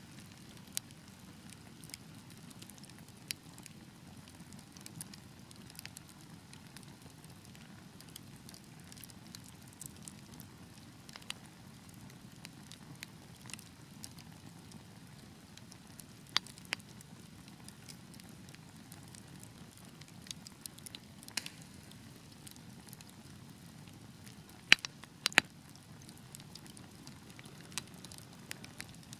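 Wood fire burning in a fireplace: a steady low rumble of flames with scattered sharp crackles and pops, a few louder snaps near the end.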